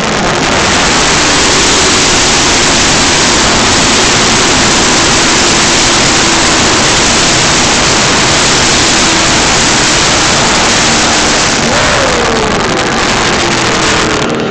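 The field of NASCAR Nationwide Series stock cars passing at full racing speed, a dense, very loud wall of V8 engine noise. It eases near the end, where one car's engine note falls in pitch as it goes by.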